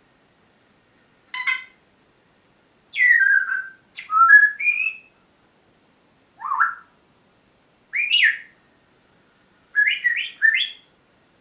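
Pet parrot giving a string of short whistles and squawks with sliding pitch, about six calls spread over ten seconds with pauses between, ending in three quick calls in a row.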